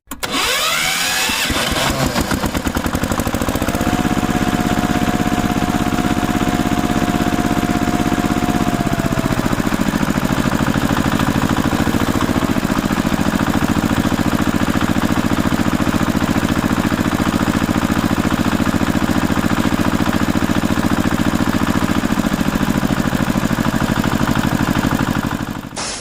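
Vehicle engine running steadily with a fast, even chugging. A held whine joins it about four seconds in and drops away around nine seconds.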